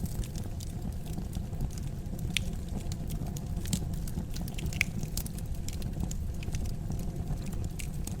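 Wood fire burning in a fireplace: a steady low rumble of the flames with frequent small crackles and a few louder pops.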